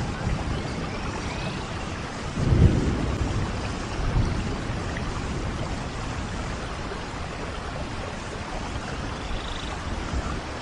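Steady heavy rain, with low rumbles of thunder: the loudest about two and a half seconds in and a smaller one at around four seconds.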